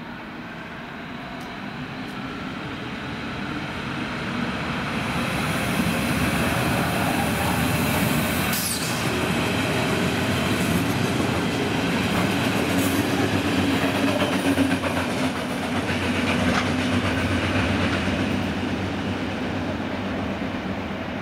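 Berlin S-Bahn electric train running through the platform. It grows louder as it approaches, stays loud as the cars pass close with wheels clattering on the rails, then begins to fade. There is a brief high squeal about nine seconds in.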